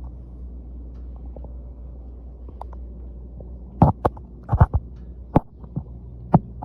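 1969 GMC pickup's engine idling with a steady low hum. In the second half, several sharp clicks and knocks sound over it.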